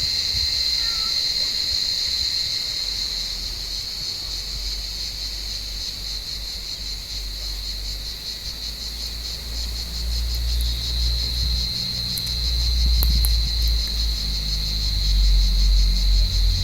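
Cicadas calling in a steady, high chorus with a fast pulsing in it. A low rumble joins about ten seconds in and is loudest near the end.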